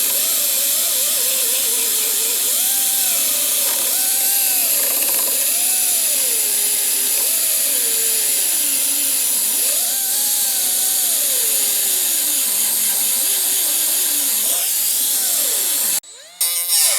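Angle grinder working on a steel chassis rail, the motor's pitch sagging and recovering as it is pressed on and eased off the metal. It stops about sixteen seconds in, then starts again in a short burst near the end.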